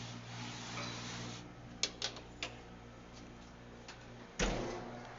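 Refrigeration compressor humming steadily, with a few sharp clicks about two seconds in and a sudden burst of hiss a little after four seconds that fades away.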